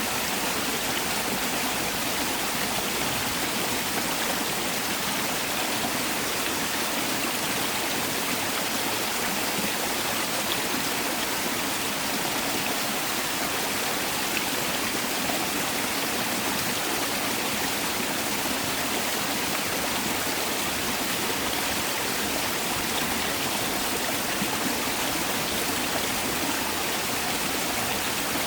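Mountain valley stream rushing over rocks, a steady, unbroken wash of flowing water.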